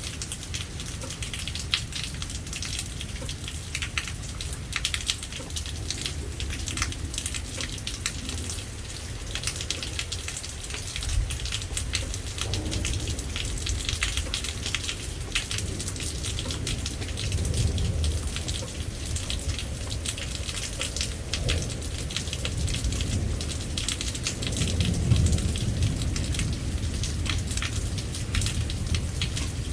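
Steady rain falling, with many close drops pattering, under a low rumble that swells a few times.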